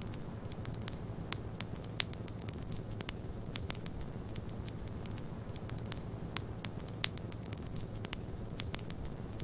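Wood fire crackling, with many small irregular snaps and a few sharper pops, the loudest about two seconds in and again about seven seconds in, over a steady low rumble.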